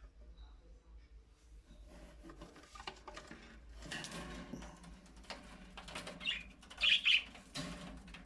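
Pet cockatiel chirping, with two short, loud chirps about seven seconds in. A burst of rustling comes about four seconds in.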